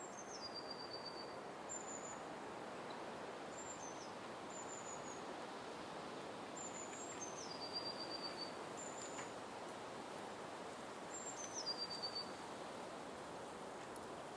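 Forest ambience: a steady rushing hiss under a small bird's high calls, repeating every few seconds. Each full call is a high note that steps down into a short rapid trill, and shorter single high whistles come between them.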